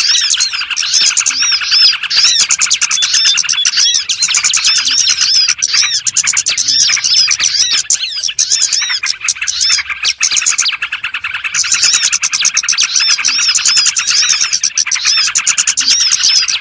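Small songbirds chirping rapidly and continuously, many short arched chirps overlapping, as in a bird-lure recording for attracting small birds.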